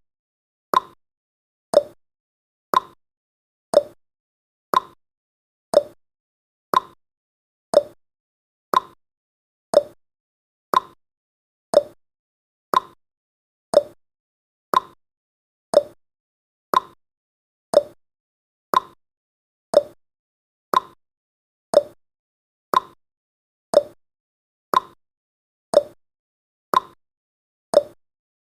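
Countdown timer's ticking sound effect: one short, sharp tick about every second, evenly spaced.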